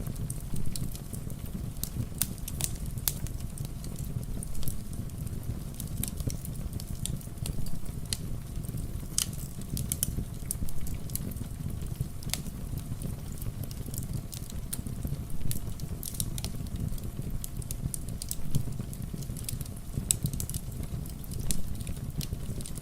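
Fireplace fire crackling, with irregular sharp pops scattered over a steady low rumble of fire and rain.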